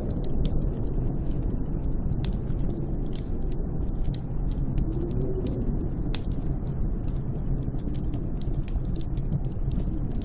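Snowstorm wind rumbling steadily, rising into a faint wavering howl about five seconds in, with scattered sharp crackles throughout.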